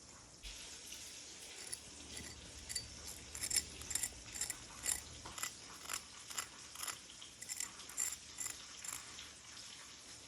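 Breaded chicken cutlets frying in hot vegetable oil: a steady sizzle with sharp crackles and pops one or two times a second.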